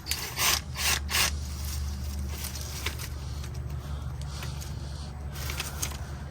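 Sharp clicks and scrapes of the sheet-metal service panel on a mini-split outdoor unit being pried and pulled off: a quick cluster in the first second or so and a few more near the end, over a steady low hum.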